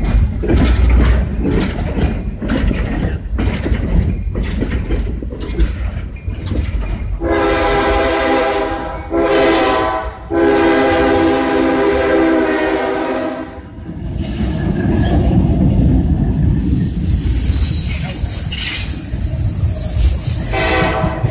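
CSX coal hopper cars rolling slowly past, wheels clicking regularly over the rail joints. About seven seconds in, a train horn sounds for several seconds with two short breaks. The cars then rumble on, and the horn sounds briefly again near the end.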